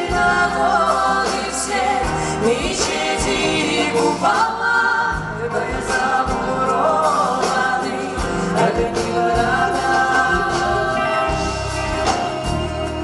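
Music: a song with a singing voice over an instrumental accompaniment with a steady bass line.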